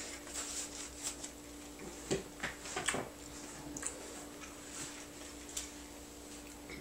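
Close-up chewing and lip-smacking: scattered wet mouth clicks, thickest about two to three seconds in, over a steady low hum.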